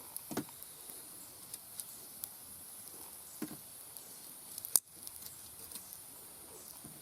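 Wood fire in a fire-pit stand crackling over a faint steady hiss, with scattered small pops and clicks and one sharp crack near five seconds in.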